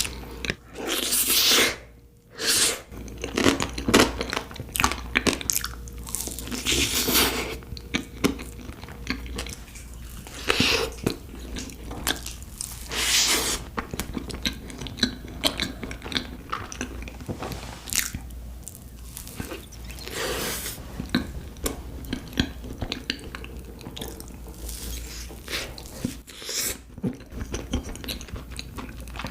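Close-miked chewing and biting of cake slices, in irregular bursts of mouth noise with a few louder bites.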